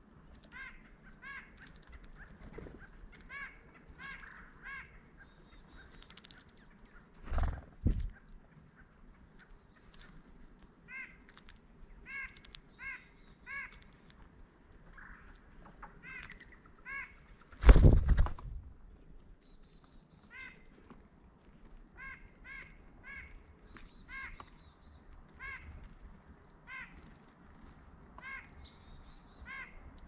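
Birds calling in short, harsh runs of three or four notes about half a second apart, over and over, with two loud thumps, the first about a quarter of the way in and the louder one a little past the middle.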